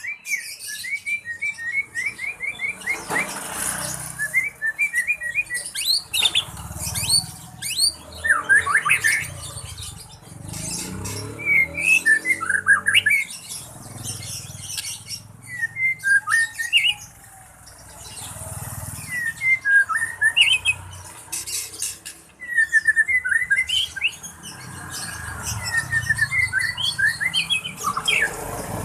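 A bird in breeding condition calling in repeated bursts of quick, sharp chirps and trills, with short pauses between bursts.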